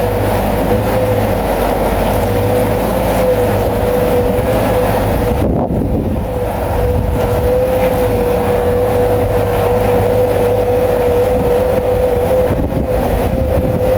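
Bulldozer's diesel engine running steadily under load, with a constant low rumble and a steady high whine held throughout.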